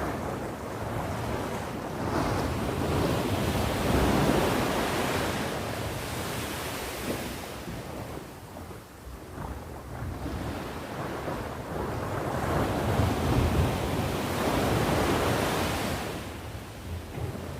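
Sea waves breaking and washing on the shore, swelling and ebbing in slow surges, with wind buffeting the microphone.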